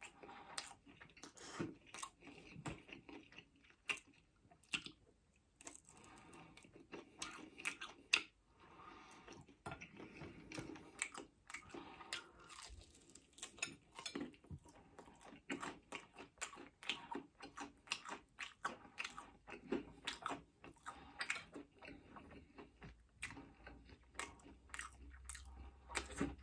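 Close-miked chewing and biting of takeaway chicken wings: irregular crunches and wet mouth clicks.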